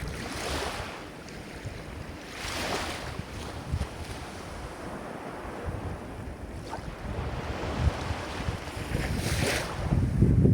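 Ocean surf washing in, with three hissing swells about half a second, two and a half seconds and nine seconds in. Wind rumbles on the microphone, easing after the first second and building again near the end.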